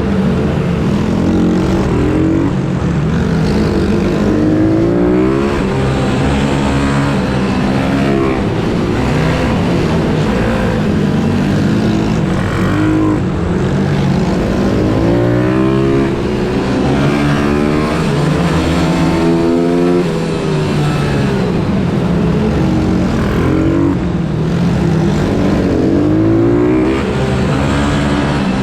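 Pit bike engines revving hard, over and over: the pitch climbs as they accelerate and drops back between shifts or throttle-offs. At times more than one bike is heard at once.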